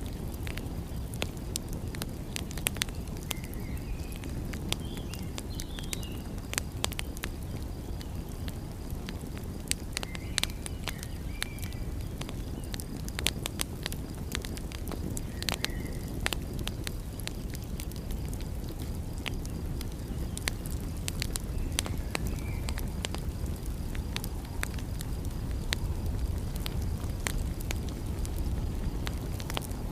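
Wood fire crackling, with frequent sharp pops and snaps over a steady low rush, and a few faint short chirps now and then.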